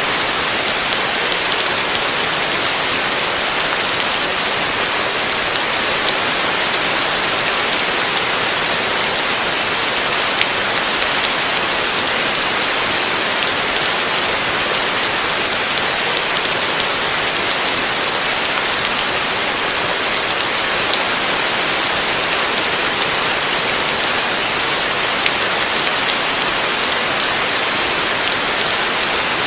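Heavy rain falling steadily on a roof, a dense even hiss of many drops with no thunder or let-up.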